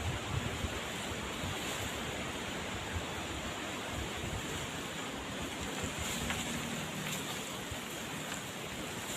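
Steady rush of heavy rain and wind: an even noise with no breaks, with a few faint ticks in the second half.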